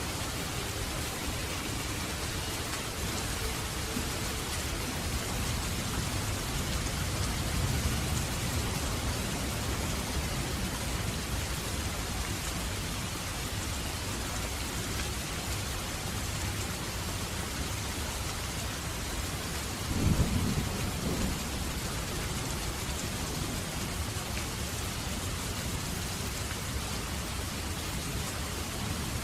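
Steady heavy rain with low thunder rumbling underneath. The thunder swells in the first third, and a sharper, louder thunderclap comes about two-thirds of the way in.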